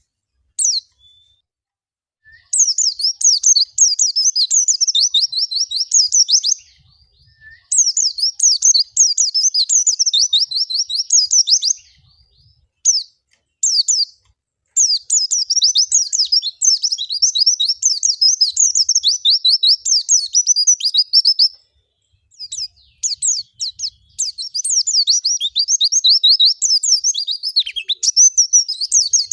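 White-eye (pleci) singing long, rapid, high twittering phrases of several seconds each, split by short pauses and a few single notes. This is the prolific wild-type (ngalas) song used as a lure to set other white-eyes singing.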